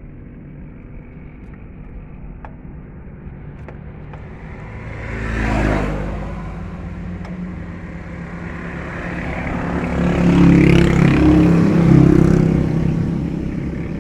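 Motor vehicles passing by: one swells and fades about five to six seconds in, then a louder engine with a steady hum comes up and passes between about nine and thirteen seconds.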